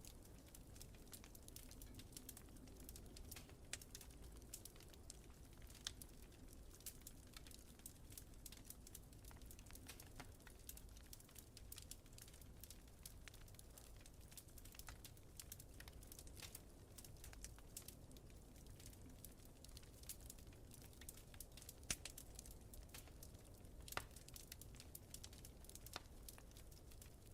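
Wood fire crackling softly, with frequent small irregular pops over a low steady rumble, and two sharper snaps near the end.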